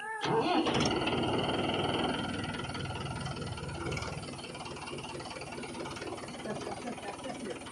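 Mahindra 595 tractor's diesel engine running, loudest in the first two seconds and easing off after about four seconds.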